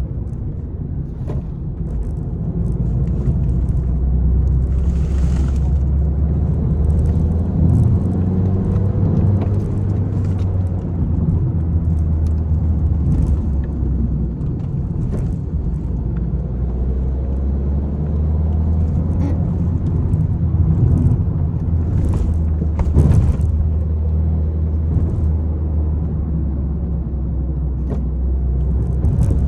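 Peugeot 301 being driven hard: the engine runs under throttle, its pitch rising and falling with the revs over a steady road rumble, with scattered short knocks and clicks from the road surface.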